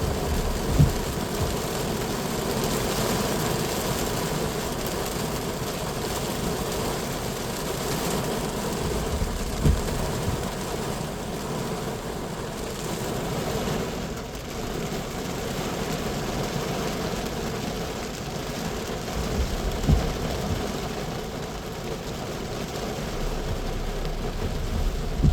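Strong wind blowing steadily, with a few low thumps about ten seconds apart.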